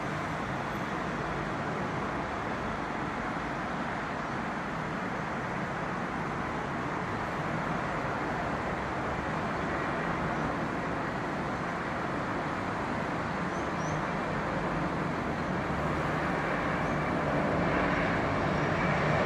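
Boeing 717's twin Rolls-Royce BR715 turbofans on approach: a steady jet rush that grows gradually louder as the airliner nears, with a low hum coming in near the end.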